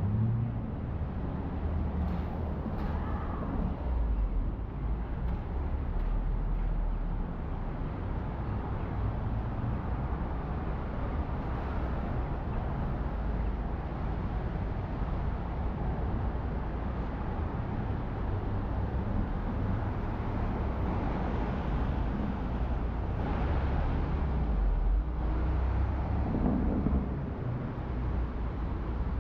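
City street traffic in the rain: a steady low rumble of engines and tyre hiss on wet roads, with vehicles passing a few seconds in and again near the end.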